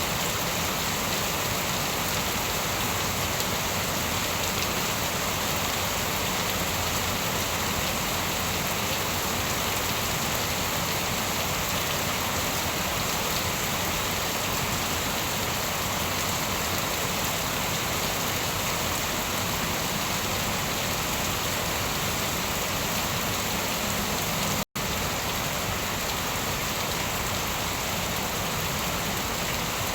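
Steady rain falling and pattering on surfaces, an even hiss that holds the same level throughout. It cuts out for an instant about 25 seconds in.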